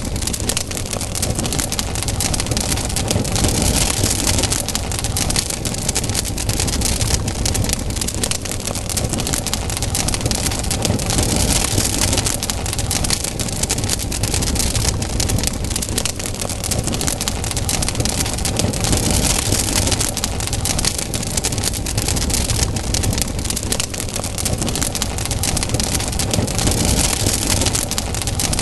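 Wood campfire burning, with dense, constant crackling and popping over a steady hiss that swells every several seconds.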